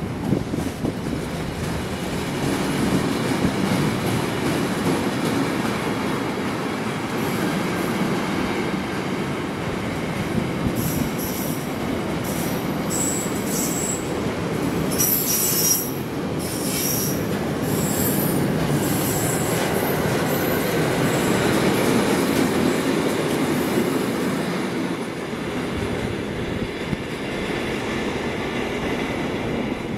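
A train passing through the station without stopping: a steady rumble of wheels on rails, with high-pitched wheel squeals from about eleven to twenty-one seconds in.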